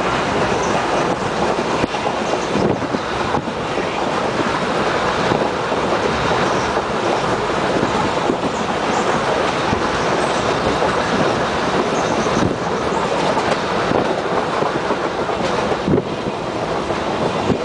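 Train crossing a railway bridge: a steady loud rumble of wheels on rails, with occasional clacks.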